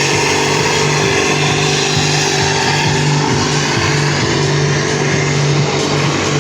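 Engine of a pulling vehicle running hard at steady high revs under load, dragging the weight sled down the pull track.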